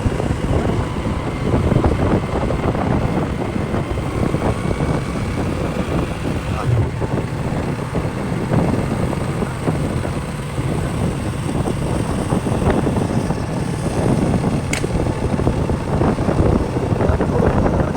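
Motorcycle underway at road speed: engine and road noise under heavy, uneven wind rumble on the rider's microphone.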